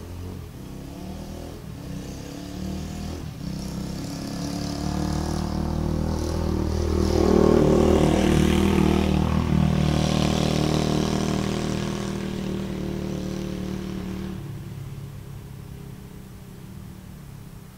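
Dirt bike engine running. It grows louder to a peak about halfway through, then fades, and its low note cuts off about three-quarters of the way through.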